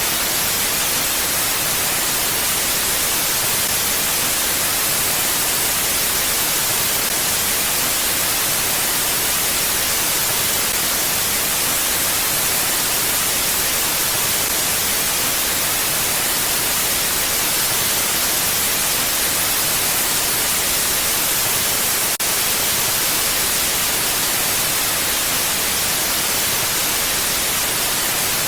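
Wind ambience: a steady, even rush of wind, hiss-like and bright, with no gusts or rises.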